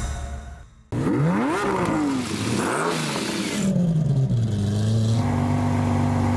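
Lamborghini V12 engine cutting in abruptly and revved twice in quick rising-and-falling blips. The revs then sink back and it settles to a steady idle.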